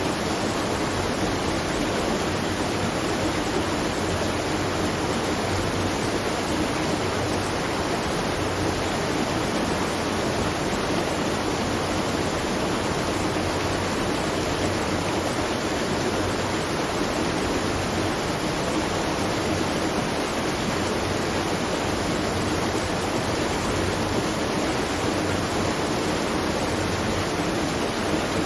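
Steady rush of water at a watermill, an even, unbroken sound of falling and running water.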